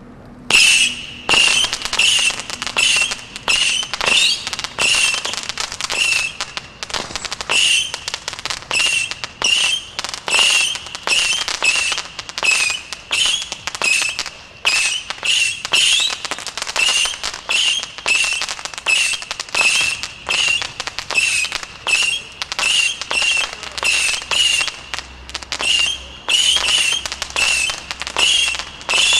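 A Stealth Fireworks 'Missile Assault' missile barrage firing shot after shot, a little under two a second, without a break. Each shot is a launch with a short wavering whistle followed by crackling from the gold and silver streamers.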